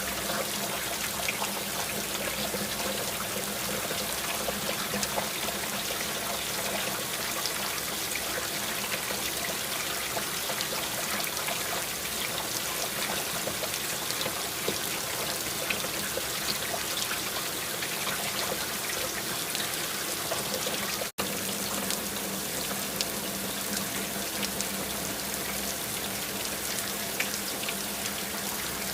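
Steady rain falling, with many close, separate drops ticking through it. The sound cuts out for an instant about two-thirds of the way through, then carries on unchanged.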